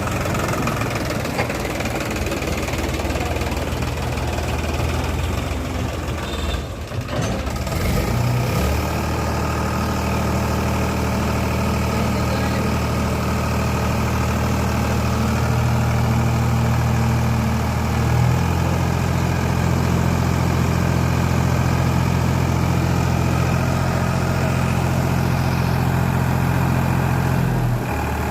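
Sonalika DI 45 RX tractor's diesel engine running steadily. Its note shifts about eight seconds in, again about eighteen seconds in, and once more near the end.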